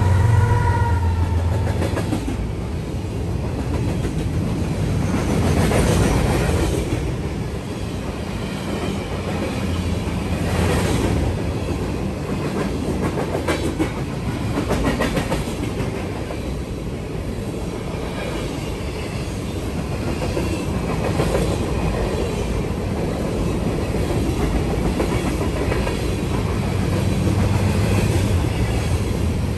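BNSF freight train passing close by. The trailing diesel locomotive's engine hums for the first couple of seconds, then a long string of covered hopper cars rolls past with a steady rumble and the clickety-clack of wheels on the rails.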